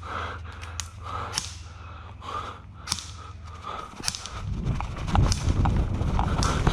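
Sharp snaps of airsoft gunfire now and then over a player's breathing and movement through the woods. A low rumble of wind or handling on the helmet camera comes in during the second half.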